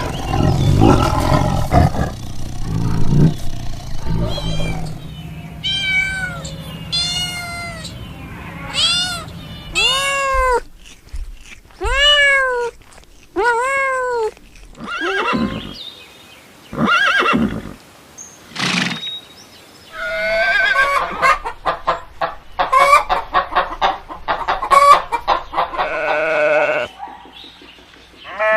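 A run of different animal calls. It opens with a low, rough rumble, then a series of short cries whose pitch rises and falls, each about half a second long. Near the end comes a stretch of rapid chattering calls.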